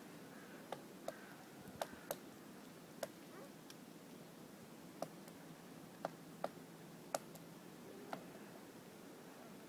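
Woodpecker pecking at a birch trunk: about ten single sharp knocks at irregular intervals, not a drumming roll.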